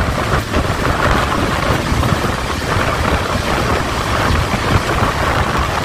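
Loud, steady rushing noise with a fluttering low rumble underneath.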